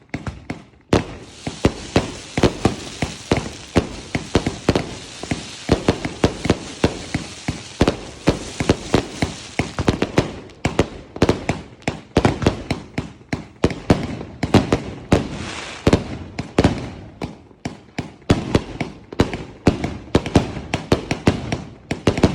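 A 200-shot firework cake firing in rapid succession, several sharp shots and bursts a second. A steady hiss runs under the shots from about a second in until about ten seconds in, and returns briefly a few seconds later.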